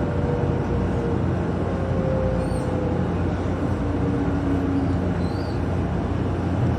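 Cabin noise of a 700-series RailStar Shinkansen running at speed: a steady rumble with a faint steady whine.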